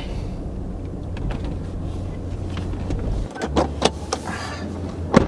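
Steady engine and road hum inside a moving car. In the last two seconds come clicks and knocks and then a loud thump near the end: a car door that was not fully shut being opened and pulled closed while the car is moving.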